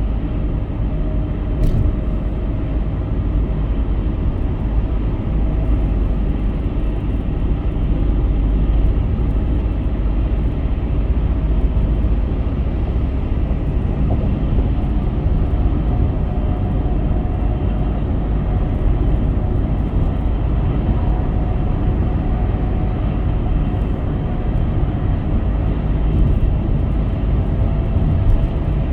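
Steady road noise of a car driving at highway speed: a continuous low rumble of tyres and engine, with a faint steady whine through it and a single click about two seconds in.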